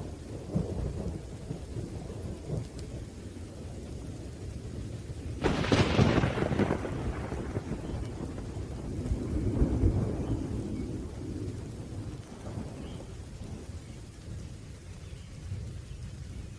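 Thunderstorm: low rolling thunder over steady rain. A sharp thunderclap breaks about five and a half seconds in and rumbles away, followed by a second long roll of thunder that fades.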